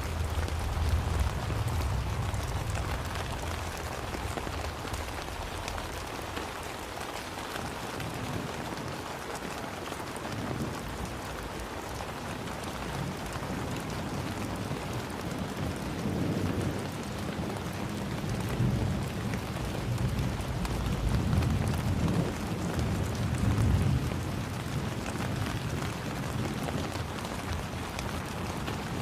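Steady rainfall, an even hiss of drops on surfaces. Deep low rumbles swell and fade near the start and again in the second half.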